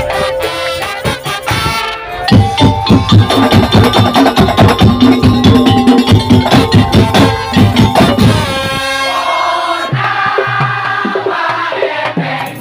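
Musik daul ensemble playing live: a fast run of drums and wooden percussion under a melody line. About two-thirds of the way through the drumming thins out and the melody carries on.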